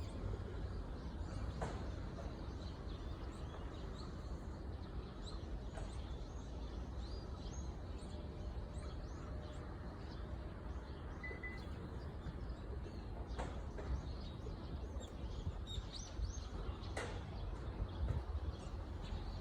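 Small birds chirping, with short high calls scattered throughout over a steady low background rumble.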